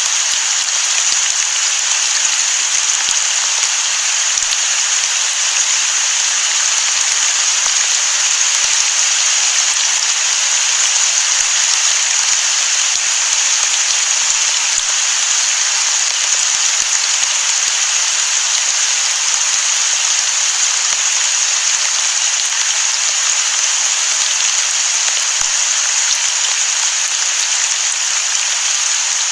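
Steady, heavy rain falling on the sea: an even, unbroken hiss with no thunder.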